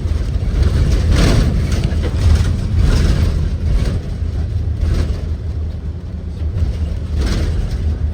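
Blue Bird Vision school bus under way, heard from inside: a steady low rumble from its Ford 7.3L V8 and the road, with several short knocks or rattles about every two seconds.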